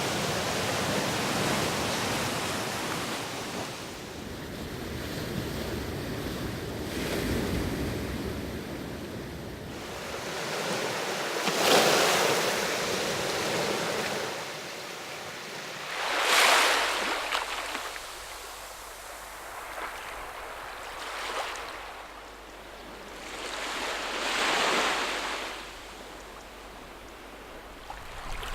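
Sea waves washing onto the shore, a steady rushing surf that swells and falls away as each wave breaks, the strongest breaks about twelve and sixteen seconds in and again near the end.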